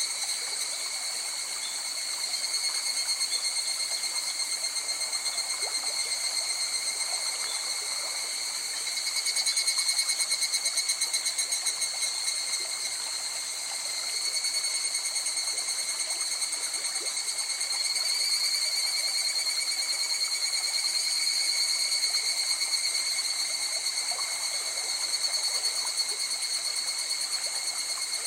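A steady chorus of night insects trilling, high-pitched and unbroken, swelling slightly for a few seconds near the middle, over the faint rush of a river.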